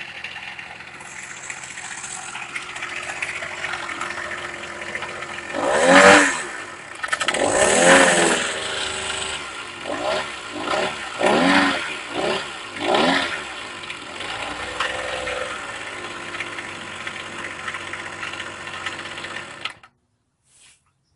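Brand-new two-stroke bicycle-kit engine on an adult tricycle running, with the throttle blipped: two long revs about six and eight seconds in, then four quicker blips, before it settles back to a steady idle. The sound cuts off suddenly near the end.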